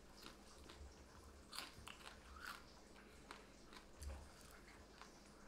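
Faint chewing of battered fried yellow bass, with small irregular crunches now and then.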